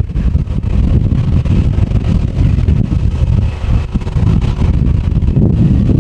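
Strong gusty wind buffeting the microphone, a loud low rumble that rises and falls throughout, drowning out the jet airliner's engines.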